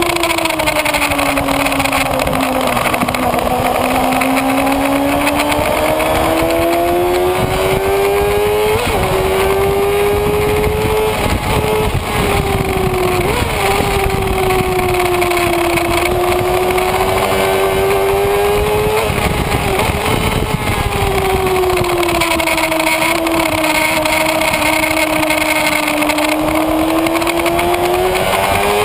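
Kawasaki Ninja ZX-6R inline-four engine heard from on board at speed, its pitch rising and falling slowly several times as the rider works the throttle through a run of corners, with a few brief blips along the way. Wind rush sits under the engine throughout.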